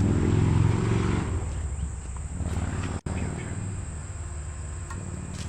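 A motor vehicle's engine running steadily with a low hum, loudest in the first second or so and then easing off, with a brief dropout about three seconds in.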